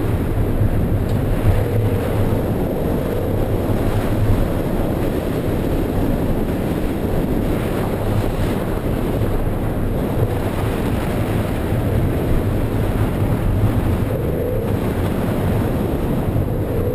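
BMW E46 M3's S54 straight-six engine held at high revs in second gear through a drift, its pitch wavering slightly as the throttle is worked. The tyres hiss and throw spray off the wet surface.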